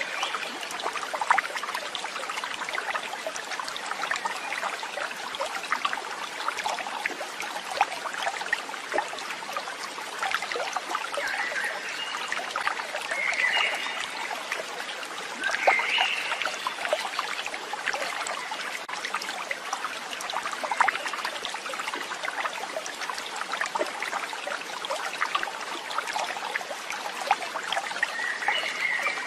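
Water trickling and running steadily, like a small stream, with a few short high calls now and then, each lasting under a second.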